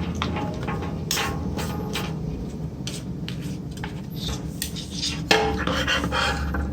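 Irregular clinks and knocks of small hard parts being handled, over a steady low hum, with one sharper knock a little after five seconds in.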